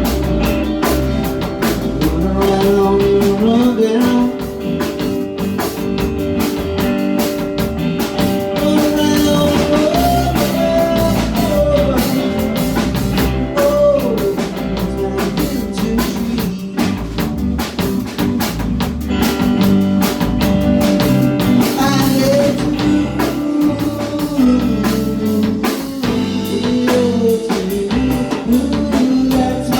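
Small rock band playing live: guitar and drum kit with a sung vocal line.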